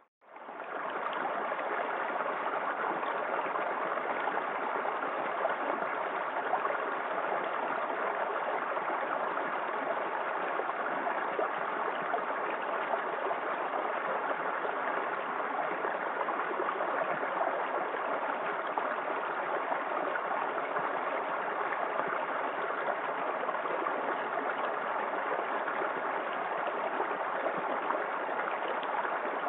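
Small waterfall in a forest creek: water falling and splashing in a steady, even rush. The sound cuts out for a moment at the very start, then comes straight back.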